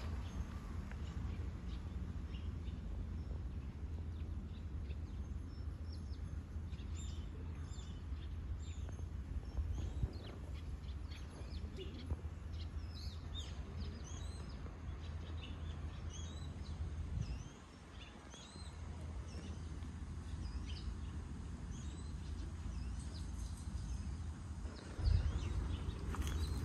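Birds chirping in short, high, repeated calls over a steady low outdoor rumble, with a louder bump near the end.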